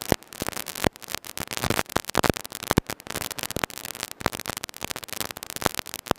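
Irregular crackling static hiss on an aircraft headset intercom feed, with no voice on the line.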